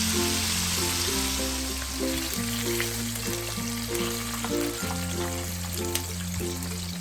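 Flour-and-cornstarch-coated chicken pieces deep-frying in hot oil, a steady sizzle that is loudest at the start and eases off a little. Background music with a steady bass line plays under it.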